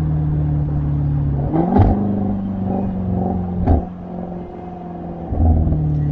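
Range Rover SVR's supercharged 5.0-litre V8 running through a valved aftermarket FIE exhaust, idling with two short throttle blips, each ending in a sharp crack. Partway through the note drops quieter for about a second and a half, then comes back up.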